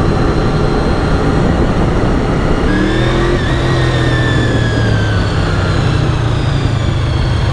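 Honda VFR 750 V4 engine running at road speed, with wind noise. About three seconds in the engine note strengthens and its pitch climbs a little, then slowly falls away as the throttle eases.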